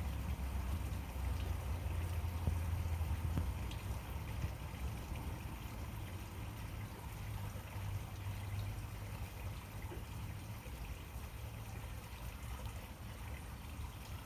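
Steady low rumble under faint outdoor background noise, a little louder in the first few seconds.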